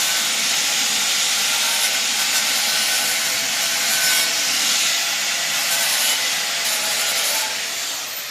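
Angle grinder cutting metal, a continuous hissing grind with a faint steady whine. Near the end it lets off and the whine starts to fall as the disc spins down.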